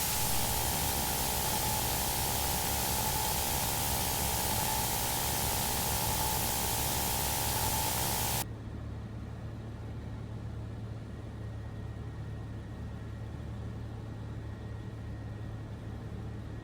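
Aircraft radio static: a loud, even hiss with a faint steady tone through the headset audio feed. It cuts off suddenly about eight seconds in, leaving a quieter, steady low hum.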